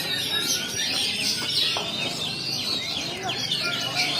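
Many caged songbirds singing at once, a dense overlapping chorus of quick chirps and short sweeping whistled notes.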